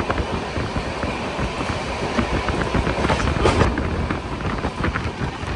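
Humsafar Express passenger train running along the track: a steady rumble and rushing noise, with scattered sharp clicks of the wheels over the rails.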